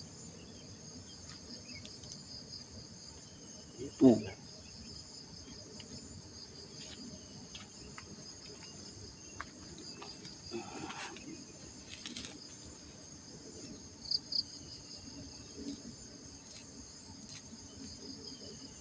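Steady high insect chorus, crickets or cicadas trilling with a fine, fast pulse. A few faint clicks and one louder short low sound about four seconds in break through it.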